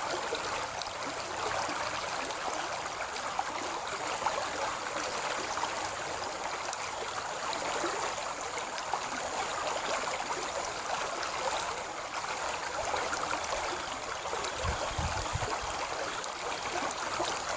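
Stream water flowing steadily, a continuous even rush.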